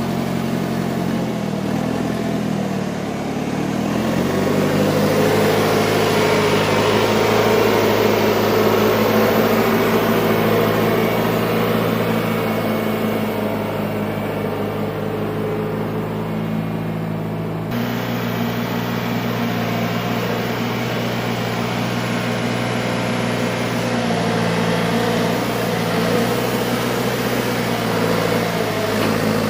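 John Deere 410 backhoe's diesel engine running steadily under way; its note dips and picks back up about three seconds in, and the sound shifts abruptly a little past halfway.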